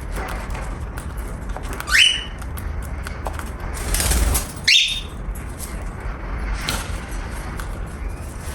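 Cockatiel giving two short, sharply rising calls about two and a half seconds apart, with a brief rustle just before the second.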